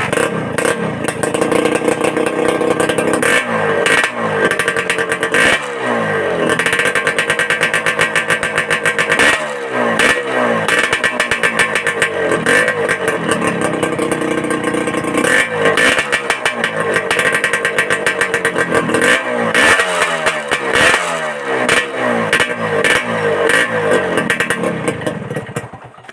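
Suzuki Satria two-stroke, single-cylinder engine being blipped repeatedly through its HM racing exhaust, its silencer freshly packed with glasswool. The revs rise and fall back every second or two with a crackling, rattly exhaust note, which the owner still finds not dense enough.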